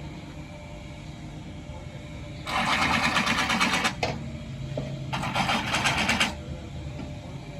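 Power impact wrench, probably air-driven, run in two bursts of rapid rattling, the first about a second and a half long and the second about a second, loosening fasteners while parts are being removed.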